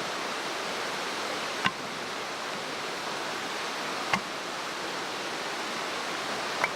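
Mountain stream rushing steadily, with three short, sharp pops spaced a couple of seconds apart.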